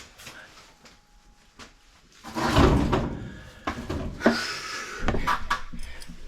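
Clatter and knocks of tools and objects being handled and rummaged through, with scattered clicks at first and a loud rustling burst about two and a half seconds in.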